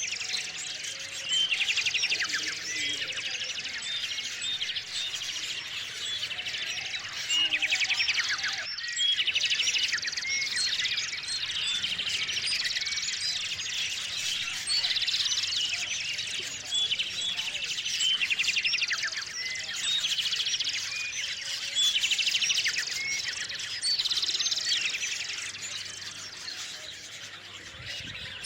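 A chorus of small songbirds, many overlapping chirps and quick rattling trills, with a brief break about nine seconds in.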